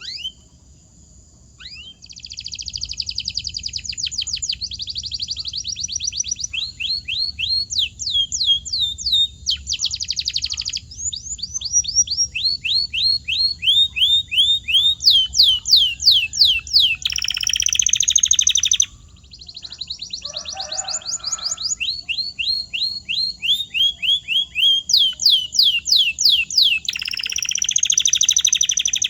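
Domestic canary singing: long rolling trills of rapid, repeated downward-sweeping whistled notes, with buzzier passages twice in the second half. The song starts about two seconds in.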